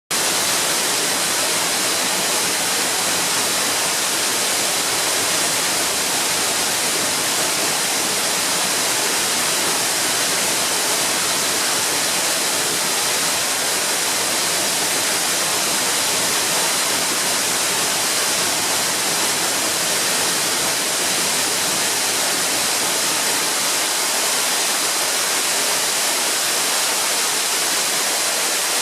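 Waterfall: a steady, unbroken rush of falling water, loud and hissy.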